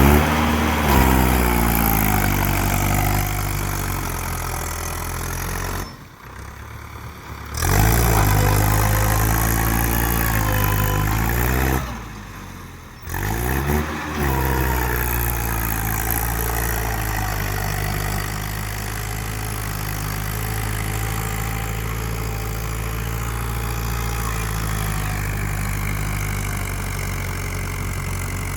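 Mahindra tractor's diesel engine working hard under load to pull a trolley stuck in mud, its revs rising and falling. It drops off briefly twice, then holds a steady run.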